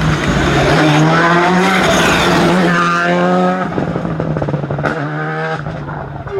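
Rally car engine revving hard, rising in pitch several times as it accelerates through the gears.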